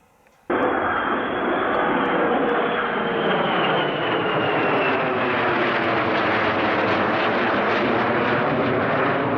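Military fighter jet engine, loud and continuous, starting suddenly about half a second in, with a high whine over the noise that slowly falls in pitch.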